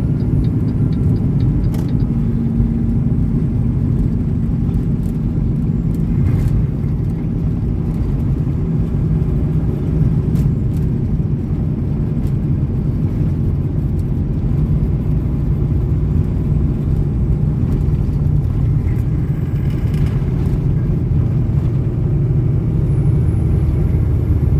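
Semi truck driving at road speed: a steady low rumble of engine and road noise.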